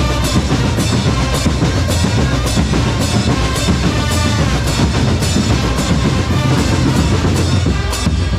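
Drum corps playing: bass and snare drums keep a steady beat under a melodic line.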